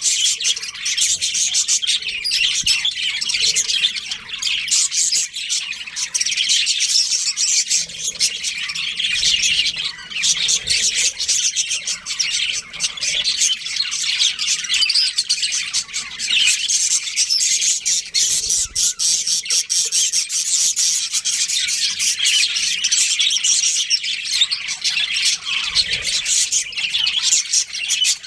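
Many budgerigars chirping together in a colony: a dense, continuous mass of overlapping high chirps and squawks.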